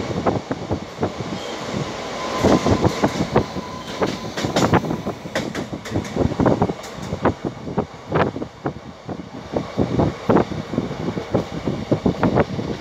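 Dehradun Express passenger train running at speed, heard from an open coach door: its wheels clatter over the track in a steady run of irregular knocks.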